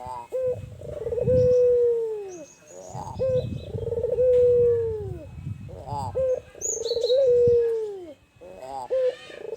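Albino Barbary dove (puter) cooing. The phrase comes three times, about every three seconds: a short stuttering note, then a long low coo that drops in pitch at its end.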